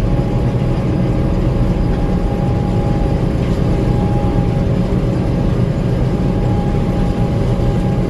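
Gleaner M2 combine running steadily while harvesting corn, heard from the cab: a constant low engine and machinery drone with a thin, steady whine above it.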